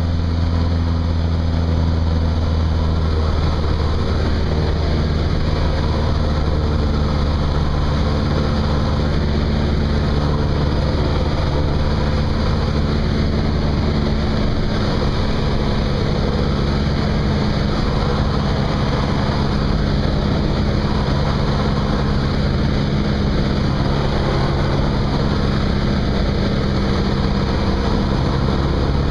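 Cessna 172's piston engine and propeller running steadily in flight, a loud continuous drone whose low tones shift slightly a few seconds in.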